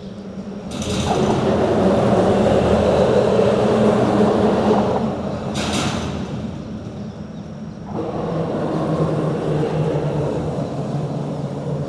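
Vehicles passing over a bridge: a rumbling pass swells about a second in and fades after about four seconds, with a short clatter just after. A second pass rises about eight seconds in.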